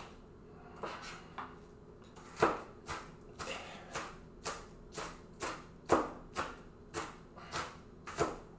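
Kitchen knife chopping an onion on a cutting board: a run of sharp knocks, about two a second, after a couple of lighter strokes at the start.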